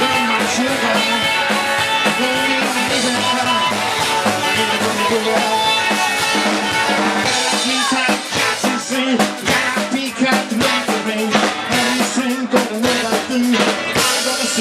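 Rock and roll band playing live, an instrumental passage with drum kit and guitar. About halfway through it turns choppier, with sharp drum hits punctuating the band.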